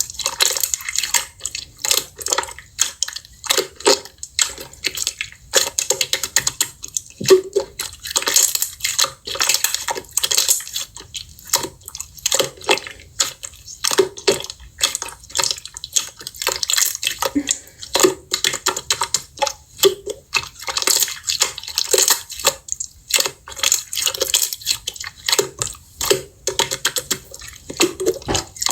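Hands squishing, stretching and poking slime, making a steady stream of wet, sticky pops and crackling clicks.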